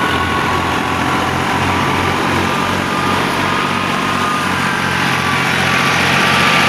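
Al-Ghazi tractor's diesel engine running steadily, driving a wheat thresher, with a dense mechanical rush and a faint thin whine over the engine's low pulse.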